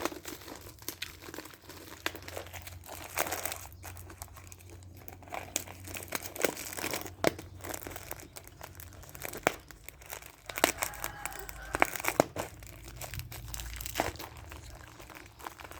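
Close-miked chewing and crunching of spicy mixed seafood papaya salad, with irregular crackly clicks and wet crunches.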